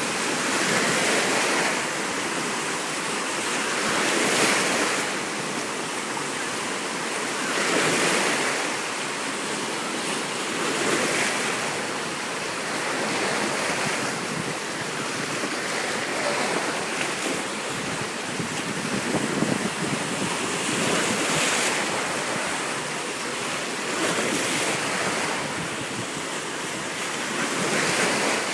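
Black Sea waves washing in, a swell of surf about every three to four seconds over a steady rush of water, with some wind on the microphone.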